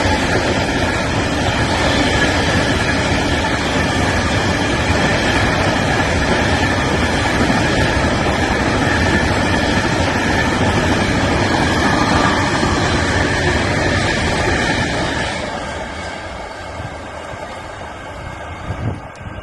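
A Class 66-hauled coal train passing, its wagons making a loud, steady rumbling rattle that fades away about fifteen seconds in.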